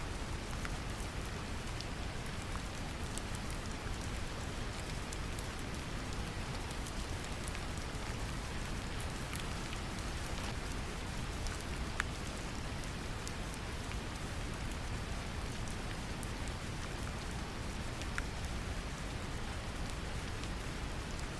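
Steady brown noise, a deep even rumble, mixed with gentle rain, with scattered light drop ticks.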